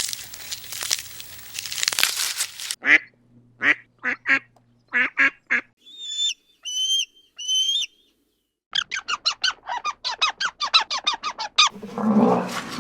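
A string of separate bird-call recordings: a noisy rush, then a series of nasal honking calls, three high chirps, and a fast chattering run of short calls. Near the end a denser, mixed animal sound takes over.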